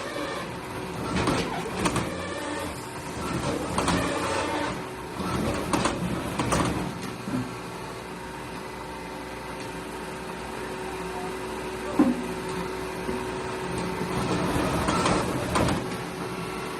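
A machine's motor running with a steady hum. Irregular knocking and scraping in the first half give way to the even hum, with one sharp knock near the end.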